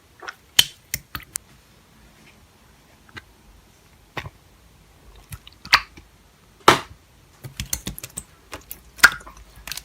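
Slime being handled, making irregular sharp pops and clicks, with a quick run of small clicks toward the end.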